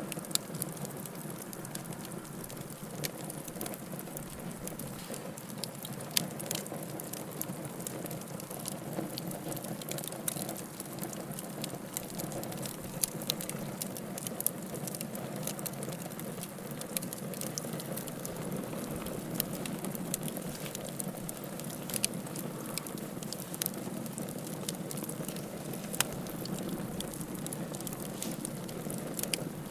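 Wood fire crackling: a steady low rush of burning, with frequent sharp pops and snaps scattered irregularly throughout.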